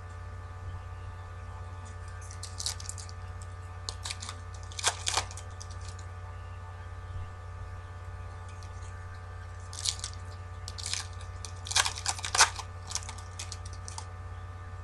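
Foil trading-card pack wrappers crinkling and tearing as packs are opened and the cards are handled, in several irregular bursts over a steady electrical hum.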